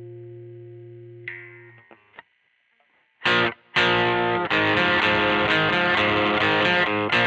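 Squier Vintage Modified Jaguar electric guitar played with distortion. A held chord rings and fades, followed by a few muted string scratches and a short pause. About three seconds in, loud distorted chords start, strummed in a rhythmic pattern with brief stops.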